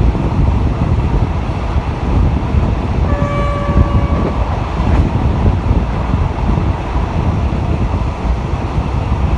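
RHN diesel railcar running along the track, a steady rumble with wind at the open window. About three seconds in, the horn sounds one blast of about a second.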